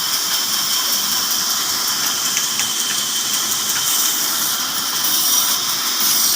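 Old black Ruston Hornsby diesel engine running steadily, heard as an even mechanical hiss with no change in speed.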